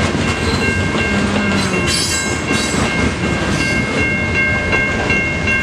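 Long freight train's cars rolling through the crossing: a steady rumble and clatter of wheels on rail, with a brief high squeal about two seconds in. Steady high tones above it are the crossing's Siemens low-pitch electronic bell ringing.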